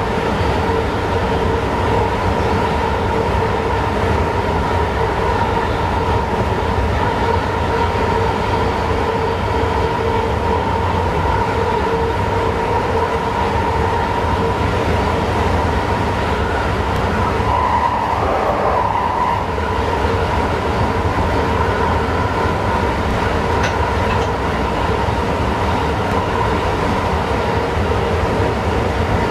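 Passenger train running steadily, heard from the driver's cab: an even rumble with a constant whine over it, and a short wavering tone a little past halfway.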